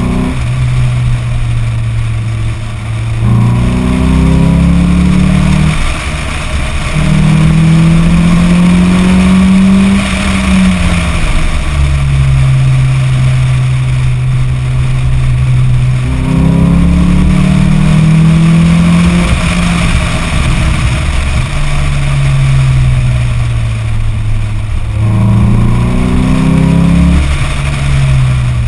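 Lotus Elise S four-cylinder engine with a sport exhaust, heard from outside the car while driving. The engine note jumps up and then sinks at downshifts about 3, 16 and 25 seconds in, rises under a short pull, drops at an upshift about 10 seconds in, and holds steady while cruising in between.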